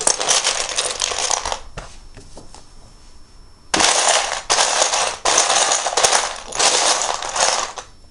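Loose plastic Lego bricks clattering and rattling as a hand rummages through a pile of them, searching for pieces: one burst at the start, a pause with scattered clicks, then a longer run of rattling in several bursts.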